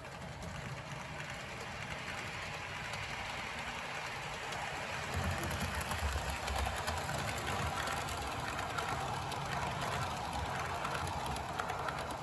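HO scale model train (Walthers Trainline F40PH locomotive pulling Superliner cars) running along the track: a steady motor whir over a low rumble of wheels and cars. It grows louder about five seconds in, with fine rapid clicking in the second half.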